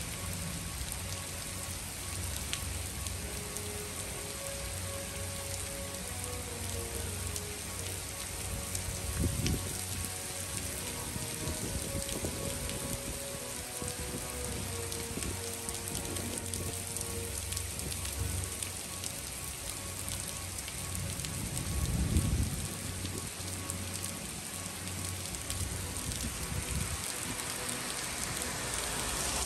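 Heavy rain pouring onto a wet asphalt street and sidewalk, a steady dense hiss of downpour. Two brief low rumbles rise out of it, the louder one about twenty-two seconds in.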